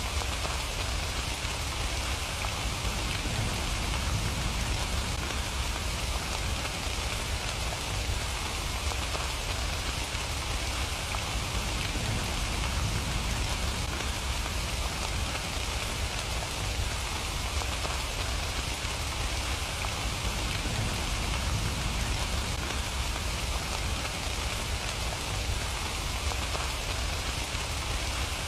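Steady rain falling, an even hiss of drops with a low rumble beneath, unchanging throughout.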